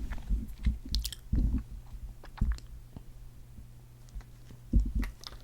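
Sparse close-miked soft clicks and small sticky pops, a few with a low thump, over a faint steady hum.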